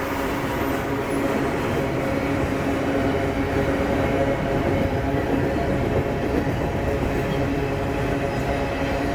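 Heavy loaded freight train hauled by GE diesel-electric locomotives under power, a steady engine drone with several held tones over the rumble of the train on the rails.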